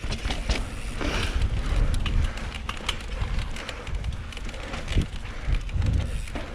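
Mountain bike descending rough dirt singletrack: tyres rolling over dirt and rocks, with scattered knocks and rattles from the bike. Wind buffets the microphone with a steady low rumble.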